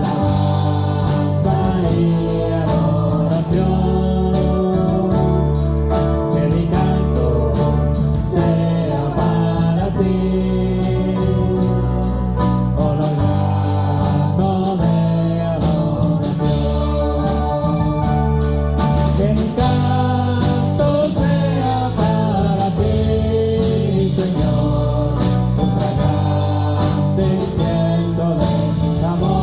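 Live church worship music: voices singing over a band with a sustained bass and a steady, quick cymbal beat.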